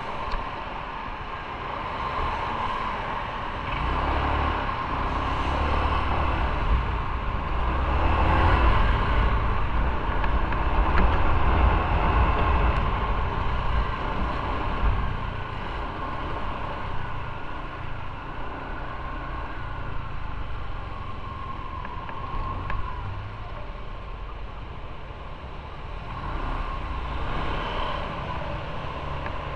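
Motorcycle riding in road traffic: a steady engine and road rumble that grows louder for several seconds in the middle and then eases off.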